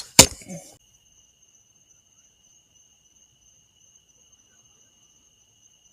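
A sharp knock just at the start, then a steady, high-pitched insect trill of a cricket holding level, faint.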